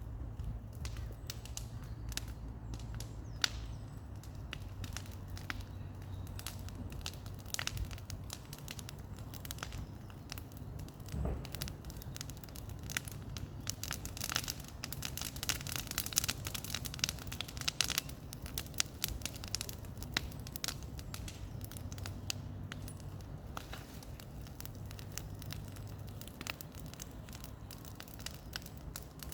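Bonfire of cleared brush burning, with dense crackling and popping that grows busier midway before easing off.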